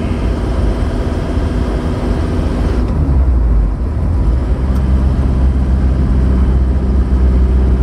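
Isuzu Panther New Hi Grade's diesel engine and road noise, heard from inside the cabin while cruising: a steady low rumble whose engine note shifts about three seconds in, then holds steady.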